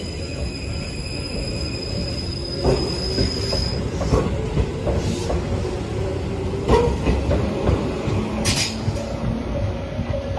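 6050-series electric train pulling out and gathering speed, its wheels rumbling and knocking sharply over rail joints and points a few times. A high steady whine runs for the first four seconds or so, and a short high screech comes near the end.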